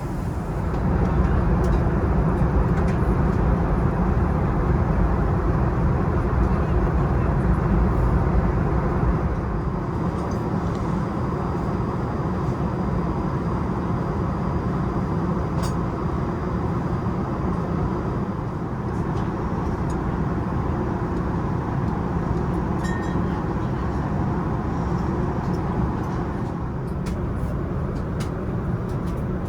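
Steady roar inside an Airbus A380 passenger cabin, from airflow and the engines. It is louder and deeper for the first nine seconds or so, then settles to a slightly quieter, even level.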